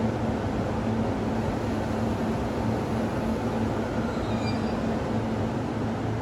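Electric train noise at a station: a steady rumble with a low hum.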